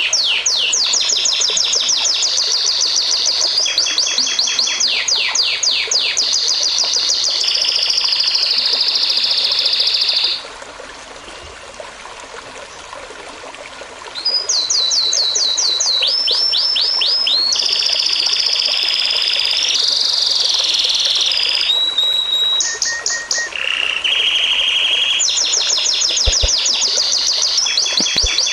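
Songbirds singing loud, fast trills of repeated downward-sweeping notes and long rolling phrases. The song stops abruptly for about four seconds a third of the way in, leaving only a steady hiss of running water, then comes back with sudden changes from one song to another.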